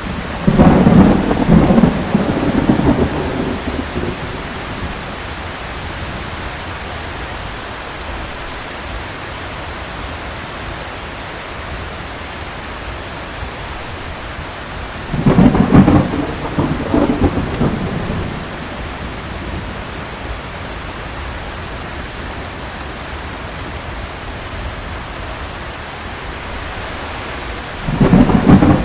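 Steady heavy rain with three rolls of thunder: one about a second in, one around the middle and one starting near the end. Each roll lasts a few seconds and is loudest at its onset.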